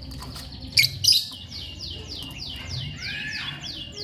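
Lovebird chirping: two loud, sharp chirps about a second in, then a rapid run of short, high notes, each falling in pitch, at about five a second.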